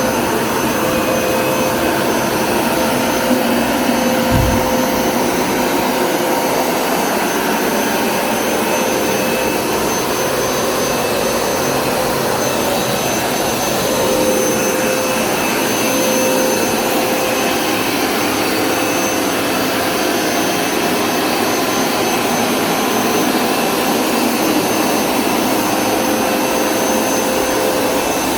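Hoover Smartwash Pet Complete carpet cleaner's suction motor running steadily, a constant rushing noise with a steady whine. A brief low thump comes about four seconds in.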